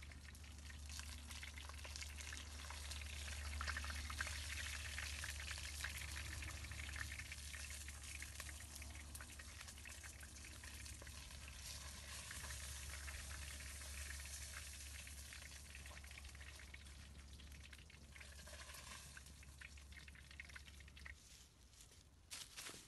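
Food frying in hot oil in a pan over a wood fire: a steady, dense sizzle and crackle as it is stirred with a spatula, thinning out near the end.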